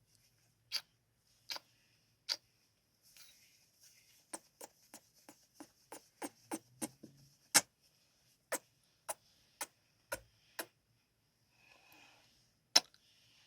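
Close-up ASMR kissing sounds: a string of sharp lip smacks, a few slow ones, then a quick run of about three a second, and a louder single kiss near the end, with faint breathy mouth noise in between.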